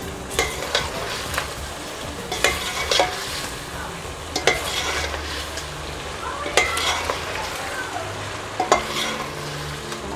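Chicken pieces frying in oil in a stainless steel pot, sizzling steadily as the ground spices are fried in, while a metal spoon stirs and scrapes against the pot with sharp clinks every second or two.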